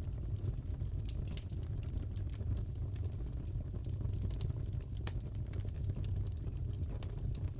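Crackling fireplace: a steady low rumble of burning with scattered sharp pops and crackles.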